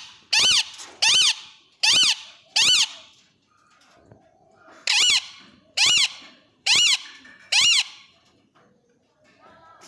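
Parrot giving loud, shrill squawks, each short call rising then falling in pitch, in two runs of four with a pause of about two seconds between them.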